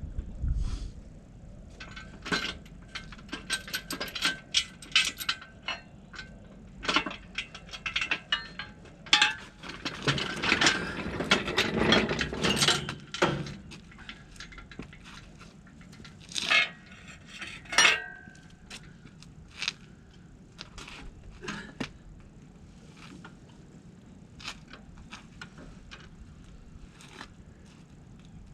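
Irregular metal clicking, clinking and ratcheting from hand work with a chain hoist and tools as an engine is set into its mounts. It is busiest in the first half, with a denser rattling stretch around ten to thirteen seconds in, then thins to scattered clicks.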